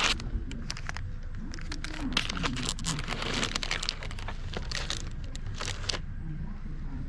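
Close crinkling and rustling, a rapid run of small crackles, that stops about six seconds in, with faint murmuring voices underneath.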